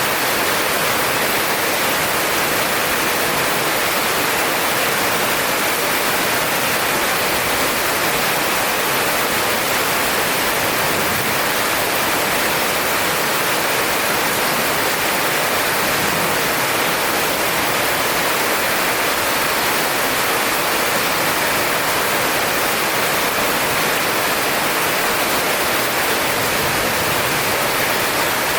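Heavy rain pouring down in a steady, even hiss, with no thunderclap.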